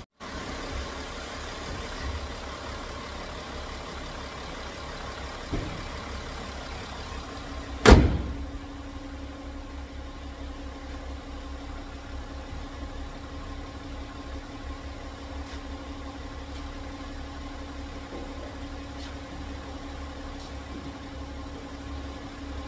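Volkswagen Touareg V6 TDI diesel engine idling steadily, running again now that its fuel rail pressure fault is cured. A loud thump about 8 seconds in, with a smaller knock shortly before it.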